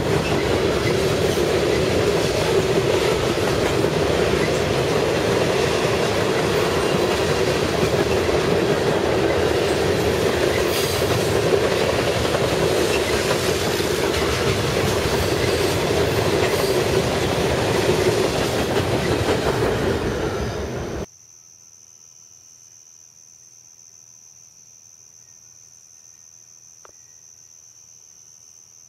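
Canadian National train cars rolling past on the rails, a loud steady rumble and clatter. About three-quarters of the way through it cuts off abruptly to a much quieter scene with insects trilling steadily.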